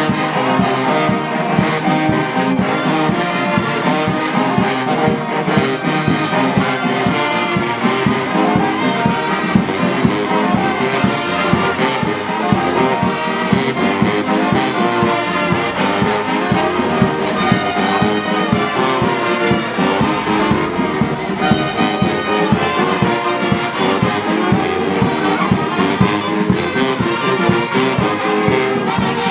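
Brass band playing steadily, with trombones and trumpets sounding sustained notes.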